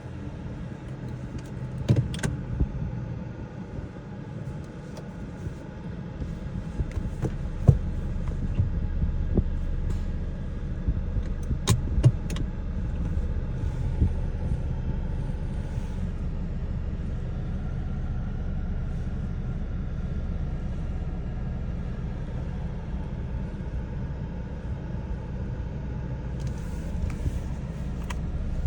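Ford Mustang engine running with a steady low rumble that builds over the first several seconds and then holds even. A few sharp clicks or knocks sound in the first half.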